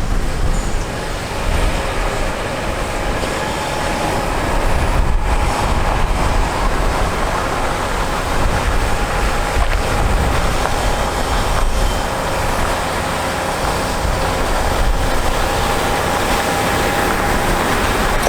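Mack MP7-395 diesel engine of a 2013 Mack GU713 water truck running, a steady, loud heavy-truck noise with a deep rumble and a broad hiss.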